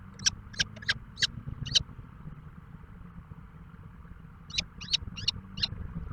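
A bird making short, sharp, high chirps: a quick run of about six in the first two seconds, then a pause, then about five more near the end.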